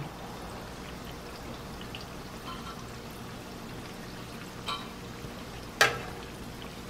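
Biscuit dough shallow-frying in a little oil, a steady soft sizzle. A metal slotted spoon clicks against the pan near the end, once faintly and then a sharper clink.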